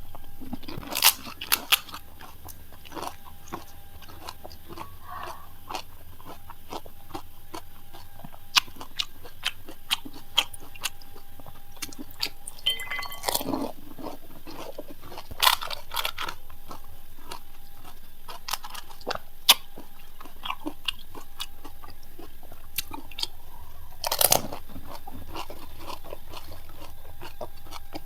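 Crisp panipuri shells cracking and being chewed, with many small crunches and a few louder ones several seconds apart.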